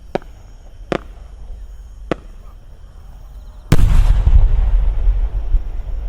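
Three short, fainter cracks, then about two-thirds in a large 30 cm aerial firework shell bursts with a sudden loud boom that trails off into a long low rumbling echo.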